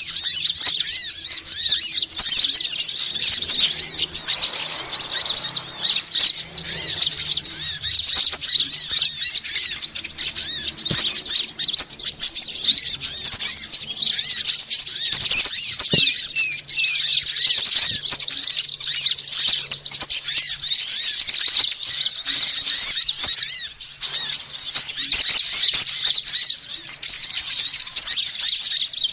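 A dense, unbroken chorus of many small songbirds chirping and chattering at once, high-pitched and busy. It is a lure call recording used to draw small birds in to a trap.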